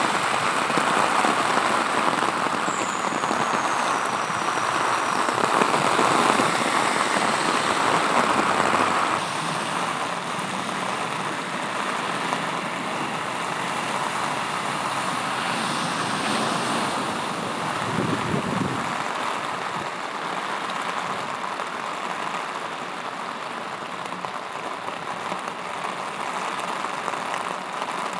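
Heavy rain pouring down and splashing on hard surfaces in a steady hiss, a little quieter from about nine seconds in. A brief low rumble comes about two-thirds of the way through.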